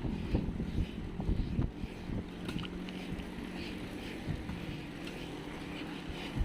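Wind buffeting a moving camera's microphone in gusty low rumbles, over a steady low engine hum from road traffic.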